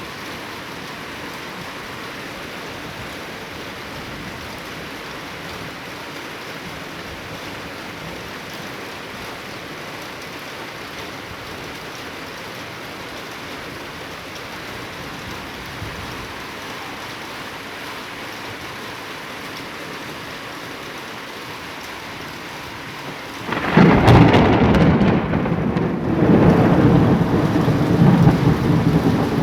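Steady rain falling, then near the end a sudden loud crack of thunder from a lightning strike, rumbling on for several seconds.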